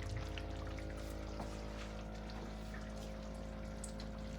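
Pot of curry chicken wings and chicken feet simmering gently in thick gravy, faint and steady, over a low hum with a few faint ticks.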